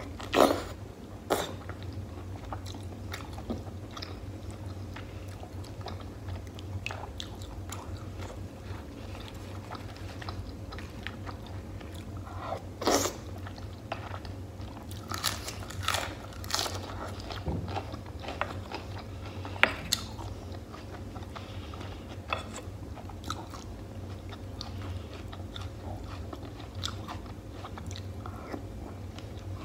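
Close-miked mouth eating sounds: chewing and biting into beef stew and fresh butter lettuce, with wet smacks, small clicks and a few crisp crunches. The crunches come as bites of lettuce leaf, the loudest near the start and around halfway through. A steady low hum runs underneath.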